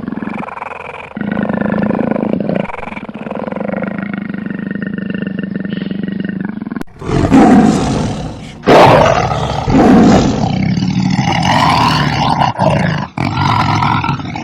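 A large wild animal calling: a long, low, steady call for about the first half, then, after an abrupt change about halfway, several loud harsh calls in quick succession.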